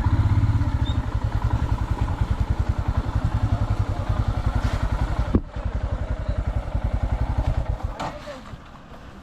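Royal Enfield Himalayan's single-cylinder engine thumping steadily at low revs, about ten beats a second, then dying away about eight seconds in. A sharp click about five and a half seconds in.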